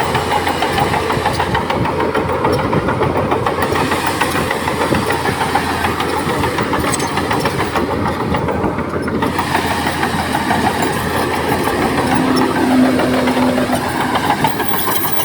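Heavy diesel earthmoving machinery running steadily under load, with a dense rattling clatter throughout and a short steady low tone about three-quarters of the way through.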